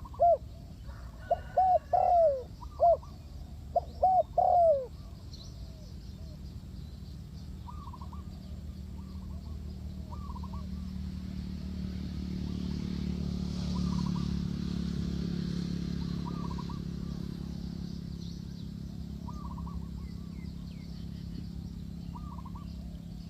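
Spotted doves cooing: a loud run of falling coo phrases over the first five seconds, then fainter coos from farther birds repeating every second or two. A low drone swells through the middle and fades.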